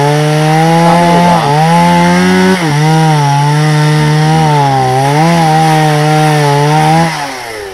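Chainsaw running at full throttle and cutting through a log, its engine note dipping and recovering as the chain bites into the wood. About seven seconds in the throttle is released and the engine winds down.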